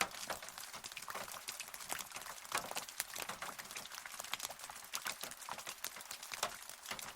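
Rain falling, with many close, irregular drops tapping and pattering on a surface over a steady hiss of rain.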